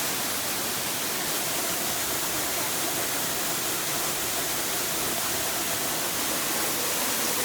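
A waterfall's steady rush of falling water, an even hiss with no breaks.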